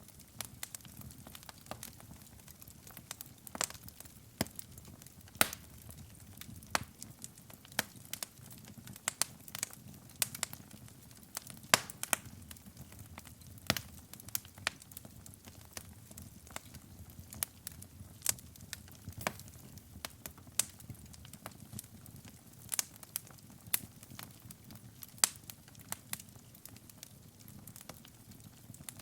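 Wood fire burning in a fireplace: irregular sharp crackles and pops, a few a second, over a low steady rumble of the flames.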